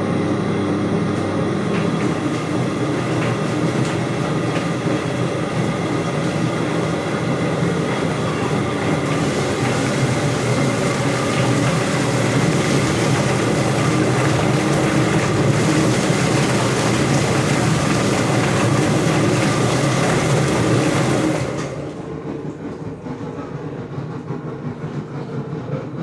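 Chicken feather plucking machine running: a steady motor hum under a continuous rattling clatter from the spinning drum. It drops to a quieter level about 21 seconds in.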